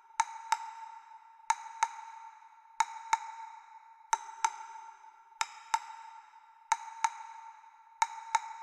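Pairs of sharp, ringing pings, the two in each pair about a third of a second apart and the pairs repeating evenly about every 1.3 seconds, seven pairs in all. Each ping rings on at one steady tone.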